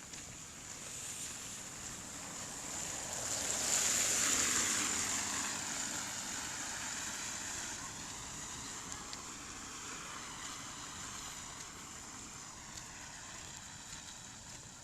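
Steady rain, with a vehicle passing on the wet road: tyre hiss swells to its loudest about four seconds in, then fades slowly over several seconds.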